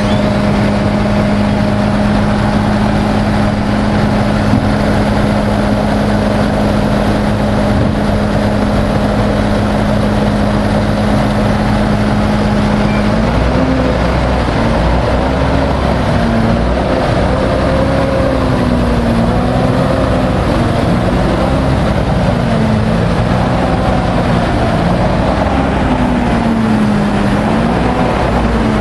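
MAN 32.281 tipper truck's diesel engine running, holding a steady note for the first half, then its pitch rising and falling repeatedly from about halfway through as the revs change.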